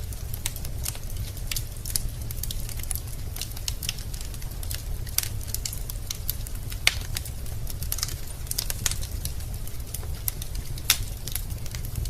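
Wood fire burning in a fireplace: a steady low rumble with logs crackling in irregular sharp clicks, and two louder pops, one about seven seconds in and one near the end.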